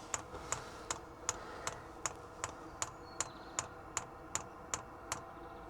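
Diesel heater fuel dosing pump ticking steadily, about two and a half clicks a second, as it primes fuel through a new fuel line; the ticking stops about five seconds in as the pump cuts out before the line is fully primed.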